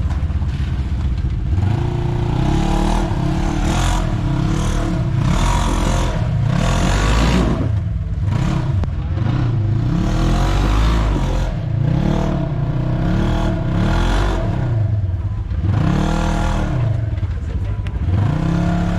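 Off-road vehicle engine revving up and down over and over, its pitch rising and falling every second or two.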